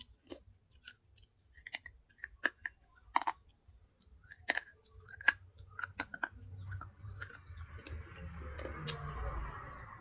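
Close-miked crunching of baked clay pieces from a clay handi pot: a run of sharp, separate cracks as pieces are bitten, turning after about six seconds into steadier gritty chewing and grinding, loudest near the end.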